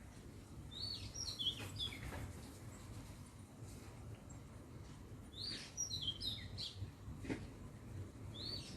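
A songbird singing: three short phrases of high chirps, each opening with a quick rising note and then a run of falling notes, repeated about every three and a half seconds, the last starting near the end.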